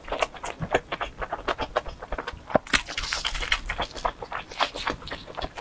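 A person chewing pizza close to a clip-on microphone: a quick run of wet clicks and lip smacks, with a breathy hiss about halfway through.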